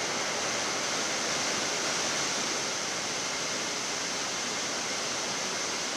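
Steady hiss of a Boeing 787 flight deck in flight: airflow and air-conditioning noise, even and unchanging.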